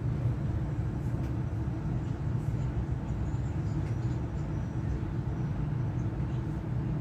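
Steady low hum and rumble inside a DB Class 425 electric multiple unit, with no change throughout.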